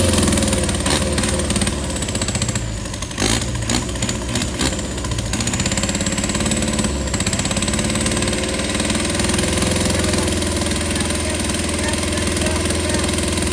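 Off-road 4x4 truck engine running at low revs, its pitch rising and falling a few times, with a couple of short knocks about three and four and a half seconds in.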